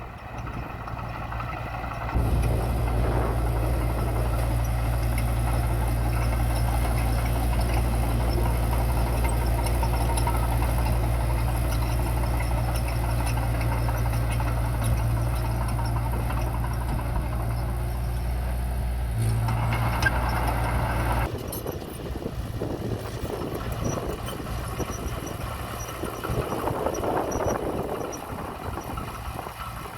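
Diesel engine of heavy earthmoving machinery running steadily. A deep, even drone comes in abruptly about two seconds in and drops away just as abruptly around twenty-one seconds, leaving a lighter, rougher engine sound.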